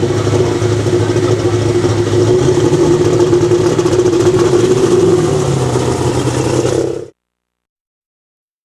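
V8 Caterpillar alcohol-burning diesel in a pulling tractor, running hard and loud. Its pitch steps up about two seconds in and drops back a few seconds later, and the sound cuts off suddenly about seven seconds in.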